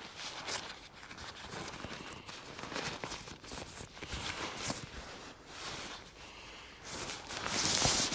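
Footsteps crunching and rustling in an irregular rhythm, getting louder near the end.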